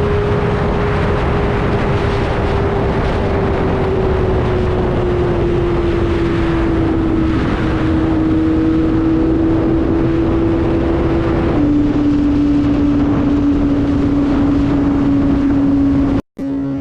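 Kawasaki ZX-25R's 250 cc inline-four engine running at high revs while riding; its pitch sinks slowly for about twelve seconds, then holds steady. Heavy wind noise on the microphone runs under it, and the sound cuts out for an instant near the end.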